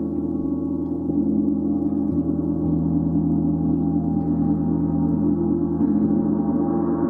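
Symphonic gong played continuously, a dense sustained wash of many overlapping tones kept going by a few light strokes, spreading brighter toward the end.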